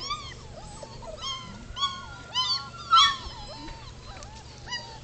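Labrador retriever puppies whining and yelping: a string of short, high cries that rise and fall, about eight of them, the loudest about three seconds in.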